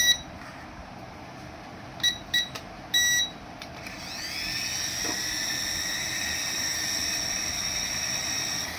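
Several short electronic beeps, then a small electric motor of a remote-control toy spinning up with a rising whine about four seconds in and holding a steady high-pitched whine.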